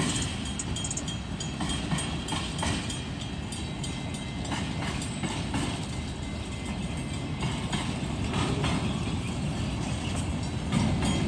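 A long train rolling past: a steady low rumble of wheels on rails with irregular clacks.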